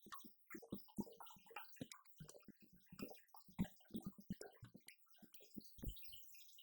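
Roland TD-50X electronic drum kit played with a loaded sample kit: a busy, irregular pattern of drum hits, low kick and tom strokes mixed with snare and cymbal hits.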